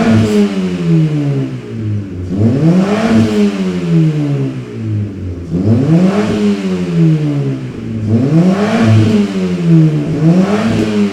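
Ford Fiesta engine revved repeatedly through an aftermarket Ulter exhaust. The pitch climbs and falls back about every two to three seconds.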